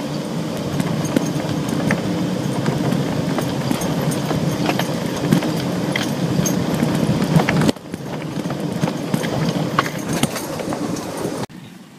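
Vehicle engine running steadily during a river crossing, with scattered clicks and knocks over it. The sound drops off abruptly twice, about two thirds of the way in and near the end.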